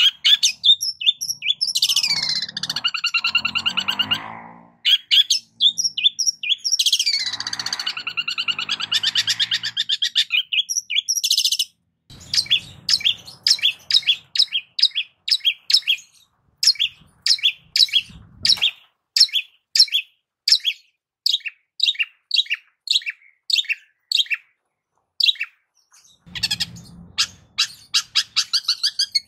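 Long-tailed shrike (cendet) singing as a lure call. It gives two longer phrases with gliding pitch in the first ten seconds, then a rapid run of short, sharp chirps at about three a second.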